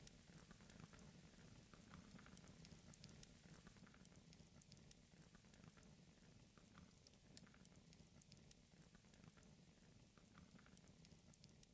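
Near silence: faint crackling and patter over a low steady rumble, fading out near the end.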